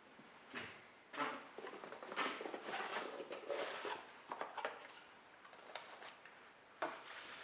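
Handling noises from an airsoft Glock 17 pistol: irregular rubbing and scraping with light clicks. There is a sharper click about seven seconds in.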